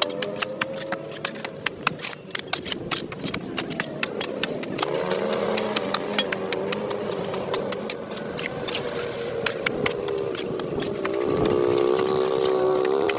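A motor running with a wavering hum, under rapid sharp scraping clicks that thin out after about five seconds; the hum grows stronger near the end.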